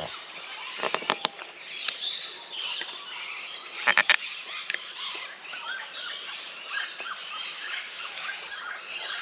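Birds chirping and calling steadily, many small calls overlapping. A few sharp clicks cut through: a cluster about a second in and a louder group of three about four seconds in.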